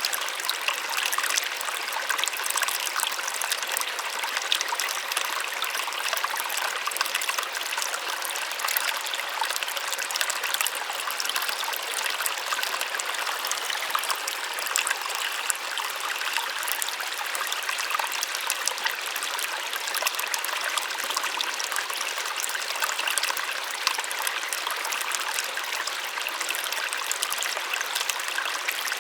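Small waterfall: water splashing and rushing steadily, a soft, even hiss with no low rumble.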